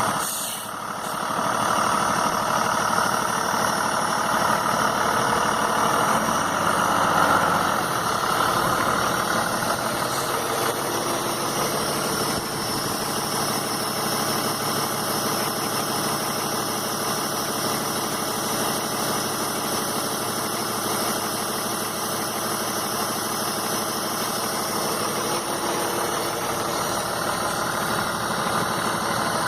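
Cummins ISB 5.9-litre straight-six diesel of a 2001 Ottawa Commando 50 yard truck idling. It is somewhat louder for the first eight seconds or so, then runs steadily.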